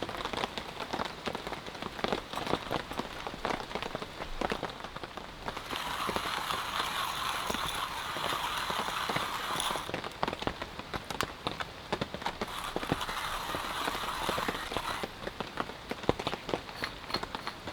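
Rain falling, with individual drops pattering and ticking on a surface. There are two spells of a louder, steady hiss, about six and about twelve seconds in.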